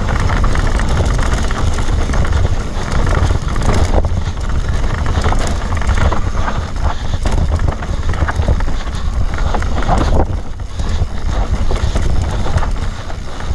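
Steady wind buffeting on the microphone while riding a rough enduro trail, with frequent knocks and rattles from the bumpy ground.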